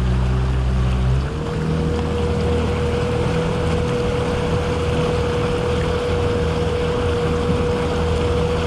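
50 hp Mercury four-stroke outboard running steadily with the boat under way, over a rush of wind and water. About a second in, its note changes and settles into a steady hum.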